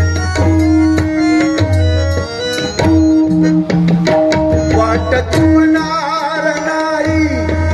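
Bhajan accompaniment played without singing: harmonium holding and changing melody notes over a pakhawaj-style hand-drum rhythm with deep bass strokes and sharp strikes.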